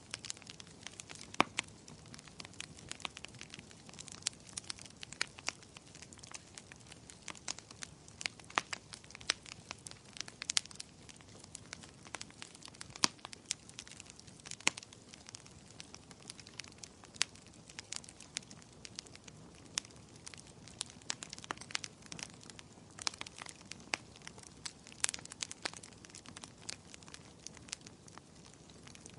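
Burning firewood crackling: frequent sharp, irregular pops and snaps over a soft steady hiss of flames.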